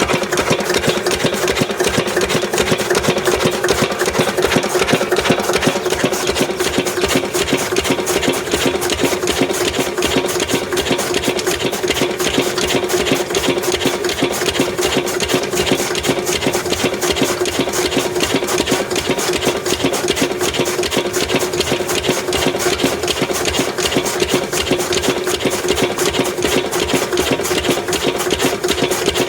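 Lister 8 HP single-cylinder diesel engine running steadily, belt-driving a chaff cutter as it chops fodder: a loud, fast, even clatter over a steady hum.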